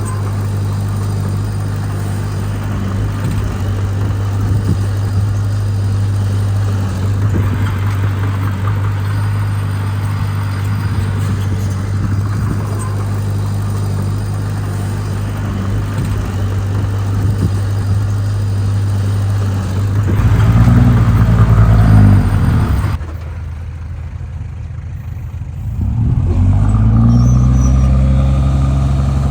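Heavy diesel engine of earthmoving machinery running steadily under load. About twenty seconds in, its pitch rises and falls as it revs harder. The sound drops off suddenly soon after, and about three seconds later an engine picks up again, revving and easing.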